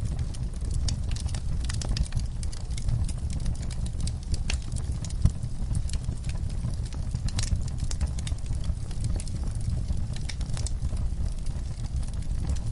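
Wood fire in a fireplace crackling steadily, with irregular sharp pops and snaps over a low steady rumble of the flames.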